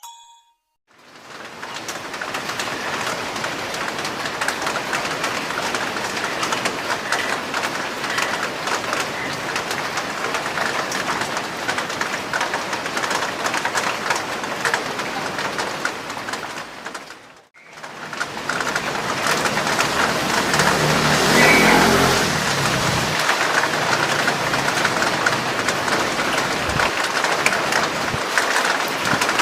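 Steady rushing traffic noise, with a few short black-collared starling calls heard faintly over it. The sound drops out briefly about halfway through, and a louder low engine rumble passes a few seconds later.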